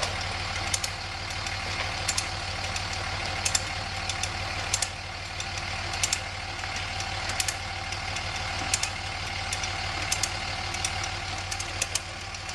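An engine idling steadily, with irregular sharp clicks over it.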